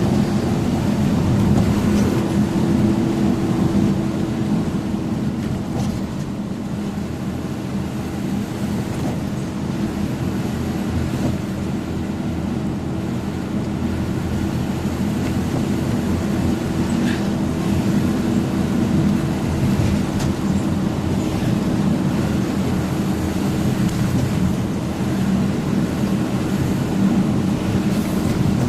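Truck engine running at a steady pace with road noise while driving, a low even hum.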